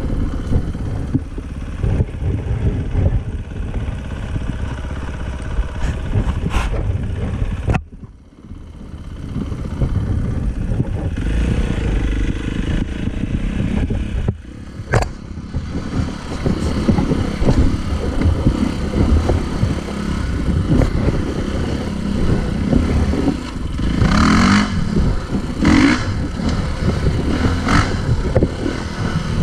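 Dirt bike engine running as the bike rides a trail. The sound drops away sharply about eight seconds in and comes back over the next couple of seconds.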